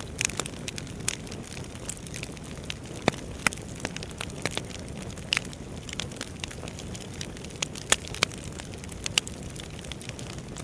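Wood fire crackling: irregular sharp pops and snaps of burning logs over a steady low rumble of the flames, a few pops standing out louder than the rest.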